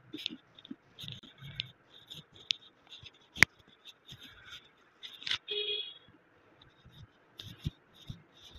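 A person crunching on a brittle, chalky piece of clay or slate, with irregular sharp crunches and cracks; the loudest crack comes about a third of the way in.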